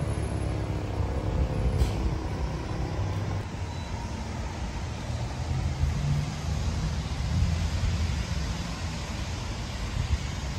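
Cammed 6.4-litre Hemi V8 of a Dodge Charger SRT8 running, a low uneven rumble that swells and eases.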